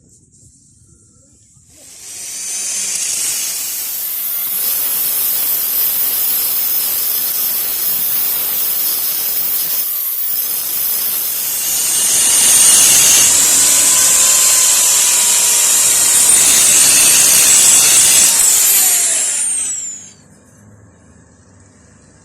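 Electric grinder working a piece of truck steel for about eighteen seconds, a loud hissing grind with a brief let-up about halfway. At the end the motor winds down with falling pitch.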